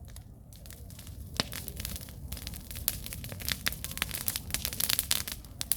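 Wood campfire burning: sharp crackles and pops over a low steady rumble, sparse at first and coming thick and fast from about halfway through.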